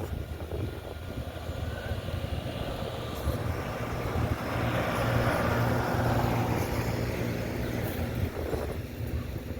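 Engine noise over a steady low hum, growing louder about halfway through and easing off near the end.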